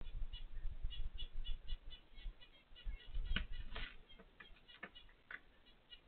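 A small bird chirping over and over in short, quick high notes. Under it a low rumble runs through the first few seconds, and a few sharp clicks come in the second half.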